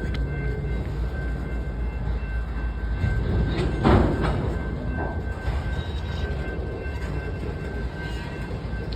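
Train rolling along the track with a steady low rumble and wheel clatter, louder for a moment about four seconds in.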